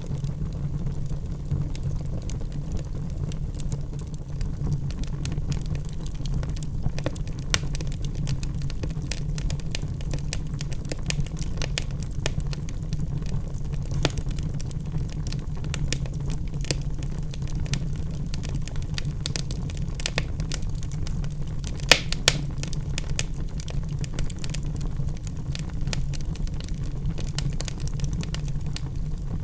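Wood fire burning in a fireplace: a steady low rumble with irregular crackles and pops from the burning logs, a louder sharp pop a little past the middle.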